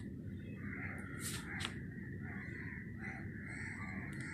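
Crows cawing repeatedly over a steady low background noise, with a couple of brief sharp high sounds in the middle.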